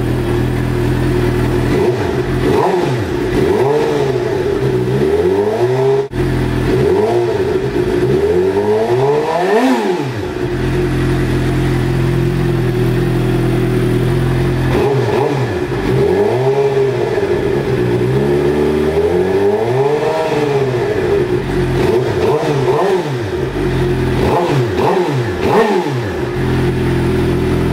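2011 Suzuki GSX-R750's inline-four engine, warm, idling and revved in a series of throttle blips through an M4 GP-style slip-on exhaust with the baffle removed and the catalytic converter still on. The revs rise and fall several times, with a steady idle stretch in the middle.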